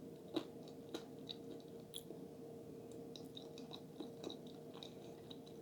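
Quiet, close-up chewing of a mouthful of food, with small wet mouth clicks scattered through it.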